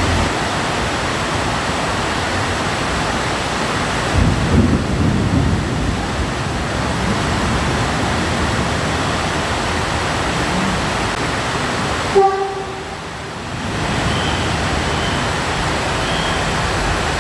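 Heavy rain falling in a steady hiss, with a low rumble of thunder about four seconds in. Just after the middle, a short pitched tone like a horn sounds, and the rain dips briefly.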